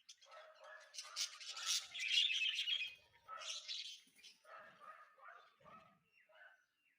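Birds chirping and calling in a rapid series of harsh, scratchy calls, loudest about two seconds in, then a string of shorter calls that fade toward the end.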